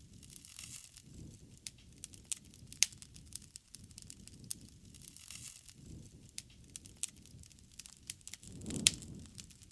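Bonfire crackling, with sharp pops scattered irregularly and a louder pop near the end, over a low rumble that swells and fades.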